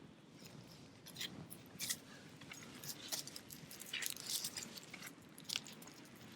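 Wood fire crackling, with irregular sharp snaps, the loudest a little under 2 s in and about 4 s in.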